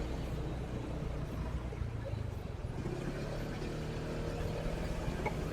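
Motorcycle engine running steadily during a ride, mixed with the noise of surrounding street traffic.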